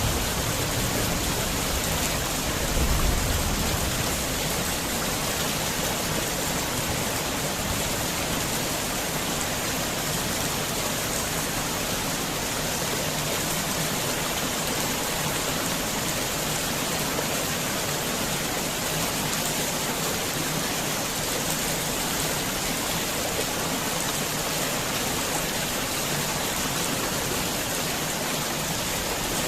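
Heavy rain falling steadily, a dense even hiss. A low rumble of thunder dies away in the first few seconds.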